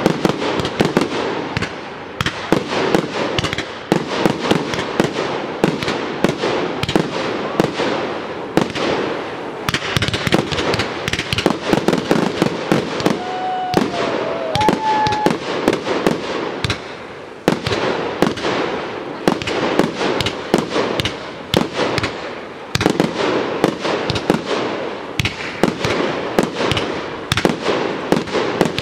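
Professional fireworks display: a dense, rapid stream of aerial-shell bangs with crackling between them, easing off briefly a little past the middle before building again.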